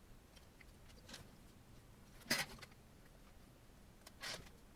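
Faint handling noises of parts being worked during assembly: three short clacks and rustles, the sharpest a little over two seconds in.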